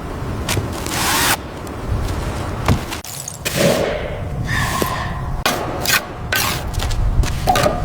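Manual work on wood: irregular knocks and thuds mixed with rubbing and scraping strokes, with a short squeak about halfway through.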